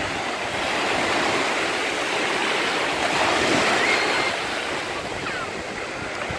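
Mediterranean surf breaking and washing on the shore, a steady rush that swells and eases, with wind on the microphone.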